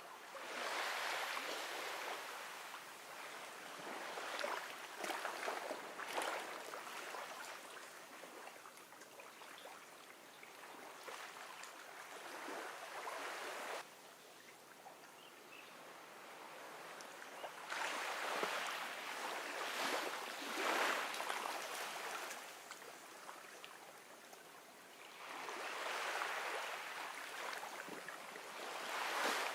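Gentle ocean waves washing onto a beach: each wave comes in as a swell of hissing, fizzing surf and then draws back, about five times, every few seconds.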